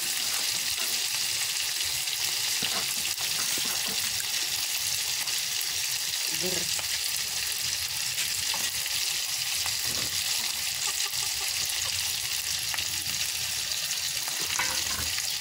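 Shrimp frying in hot oil in a wok, a steady sizzle.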